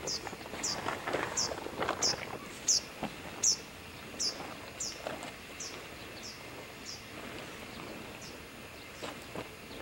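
A bird calling a long series of short, high, down-slurred notes, about three every two seconds, fading out near the end.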